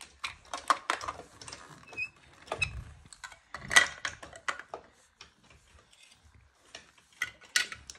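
Plastic Lego pieces clicking and clattering as they are handled, a run of irregular sharp clicks and knocks.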